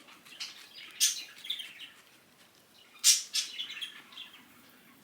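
A bird chirping in short, sharp high-pitched bursts, loudest about a second in and again about three seconds in.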